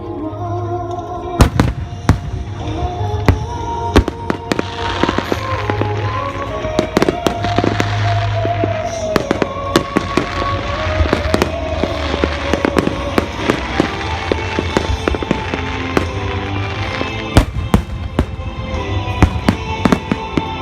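Fireworks bursting in quick succession, a string of sharp bangs with crackling a few seconds in, over slow music played through loudspeakers.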